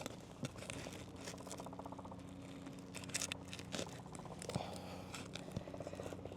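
Faint crackling, scraping and small clicks of asphalt shingles being handled and worked loose during a roof repair, over a steady low hum.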